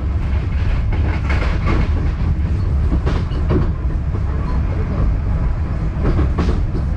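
Passenger coach of the KA Bengawan train running at speed, heard from inside: a steady heavy low rumble, with wheel clatter over the rails a few times.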